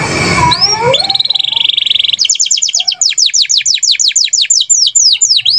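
Cage songbird singing: a dense jumble of calls, then about a second in a fast high trill, followed by a long run of rapid whistles that sweep downward, about five a second and slowing toward the end.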